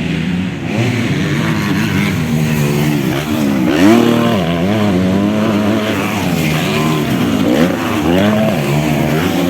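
Several motocross bikes racing, their engines revving up and dropping back again and again as they accelerate and shift, with one bike's rev sweeping up loudest about four seconds in.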